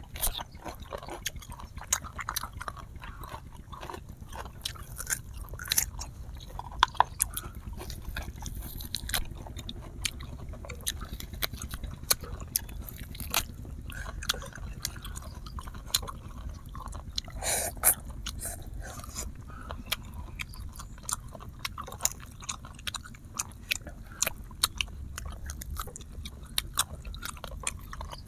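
Close-miked eating sounds: chewing and biting on grilled duck and stir-fried instant noodles, with many short crisp clicks and crunches scattered throughout, over a low steady rumble.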